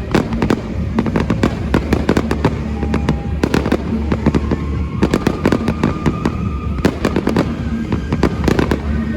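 A fireworks display going off in a rapid, continuous barrage of sharp bangs and crackles, several bursts a second.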